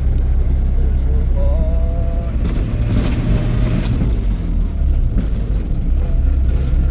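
Car driving, with a steady low engine and road rumble and a louder rush of noise about three seconds in.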